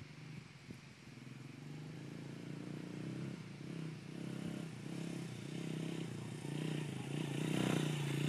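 Dirt bike engine running at steady revs, growing steadily louder as the bike comes closer.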